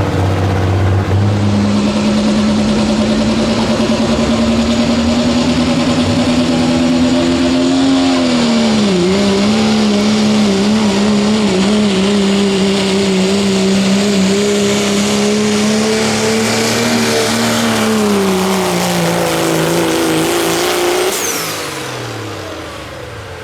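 Diesel pickup truck in the 2.6-inch turbo class pulling a sled, its engine held at high revs and slowly climbing. The revs are pulled down sharply about a third of the way in and recover, sag again later, and the engine lets off near the end.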